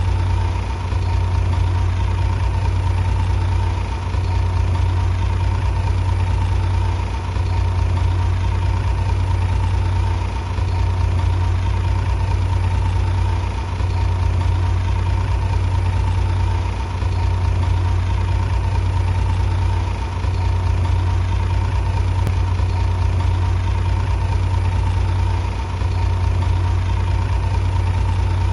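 Heavy machine engine running steadily with a deep hum, dipping slightly about every three seconds.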